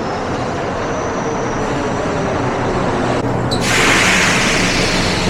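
Mexico City Metro subway train running, a steady rumble with a faint high whine, heard from inside the car. About three and a half seconds in, a loud hiss comes in and holds.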